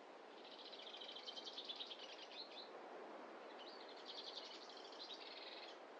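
A small songbird sings two phrases, each about two seconds long, made of fast repeated high notes, with a short pause between them. Under them runs a faint, steady rushing background.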